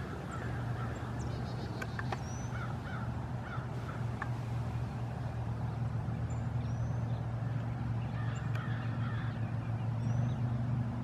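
Birds calling, with short scattered chirps and a few brief high slurred notes over a steady low hum.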